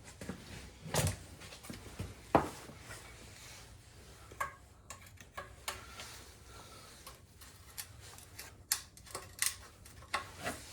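Scattered knocks, clinks and rubbing from handling engine parts and oil-draining gear, with one sharper knock about two seconds in.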